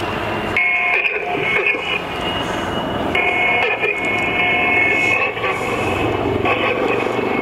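AgustaWestland Wildcat helicopter flying in display, a steady high turbine and gearbox whine over the engine and rotor noise, the whine fading and returning a few times as the aircraft manoeuvres.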